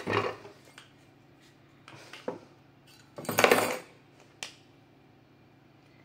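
Parts of a dismantled vacuum-cleaner motor clinking and scraping as they are handled. There are a few short knocks, with the loudest, longer clatter about three and a half seconds in.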